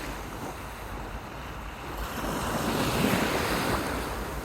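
Ocean waves washing in, one swelling to a peak about three seconds in, with wind buffeting the microphone.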